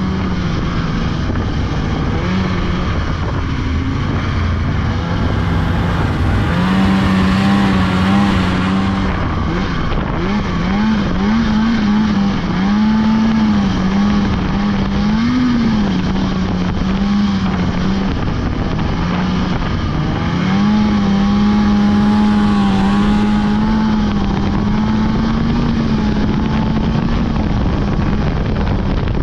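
Polaris 600 two-stroke snowmobile engine running under way, its steady pitch wavering up and down with the throttle, easing off briefly a couple of times before picking up again.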